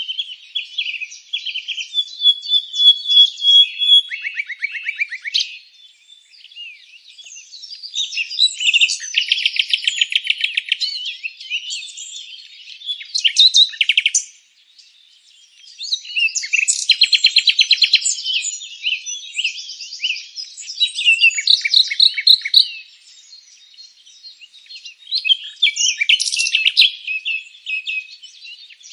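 Several songbirds chirping and singing in overlapping bouts: rapid trills, chip series and whistled notes, with brief lulls between the bouts.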